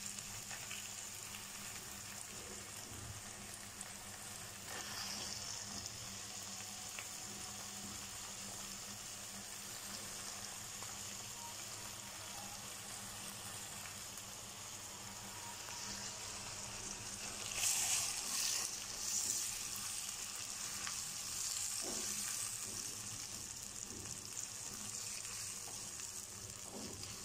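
Onions, ginger-garlic paste and freshly added chopped tomatoes sizzling in hot oil in a non-stick wok, stirred now and then with a silicone spatula. The sizzle is a steady hiss that grows louder for a few seconds about two-thirds of the way through.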